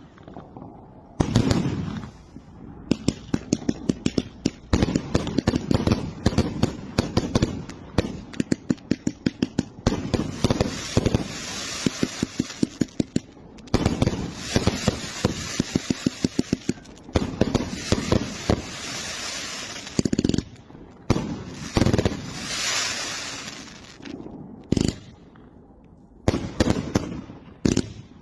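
Firecrackers going off in rapid strings of sharp bangs, with brief pauses between strings. Two stretches of hissing crackle run under the bangs.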